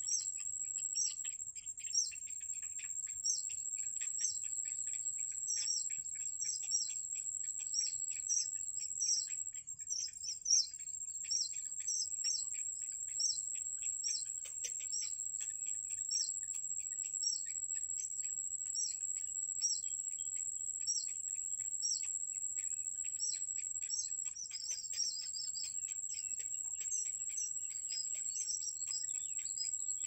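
High, short bird chirps repeated about twice a second, over a continuous high, steady insect trill.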